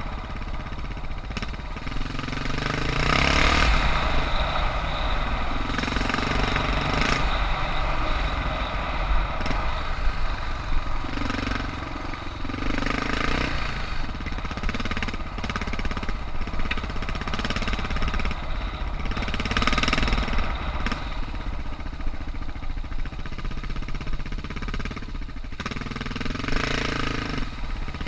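Suzuki DR650's single-cylinder four-stroke engine running on a dirt trail, the throttle opening and closing so the engine note rises and falls repeatedly, with a few louder surges of acceleration.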